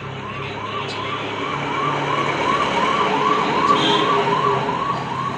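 Emergency vehicle siren in a fast rising-and-falling yelp, about two and a half cycles a second, growing louder then easing slightly near the end.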